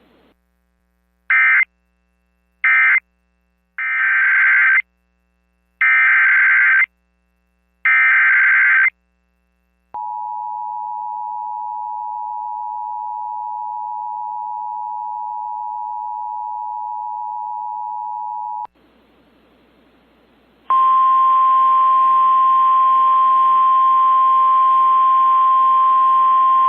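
Emergency alert tones that open a new weather warning. First come five short bursts of screeching digital data, then a steady two-note attention tone for about nine seconds. After a brief pause a single loud steady alarm tone starts, which is the warning alarm tone of a severe weather alert.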